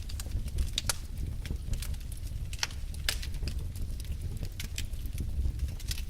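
Wood fire burning in a fireplace: a steady low rumble with irregular crackles and snaps of burning logs, several a second, and a few sharper pops.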